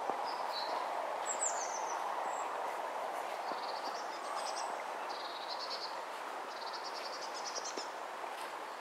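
Small songbirds calling, with short high chirps and several quick high trills, over a steady outdoor background hiss and faint footsteps.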